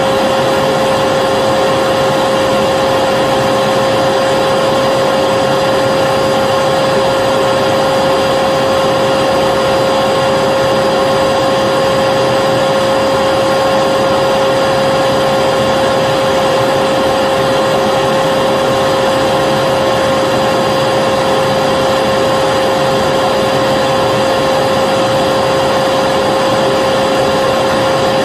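Vacuum cleaner running steadily: a constant motor whine over the rush of air, with no change in pitch or level.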